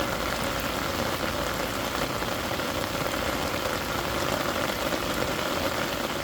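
Steady rain falling, an even hiss without pause.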